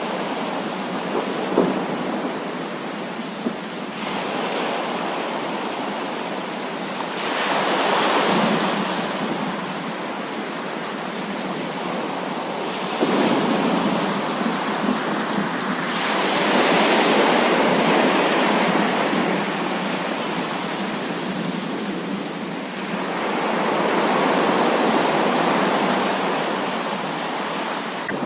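Heavy thunderstorm rain falling steadily, swelling louder and easing off several times, with a couple of sharp drip taps in the first few seconds.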